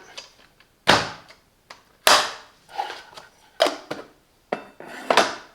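Handling noises from the plastic parts of a cordless coffee machine: about four separate knocks and scrapes, each dying away quickly.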